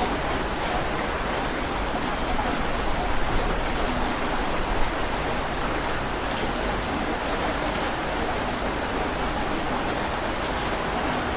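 Heavy rain falling steadily, with the patter of individual drops heard through the hiss.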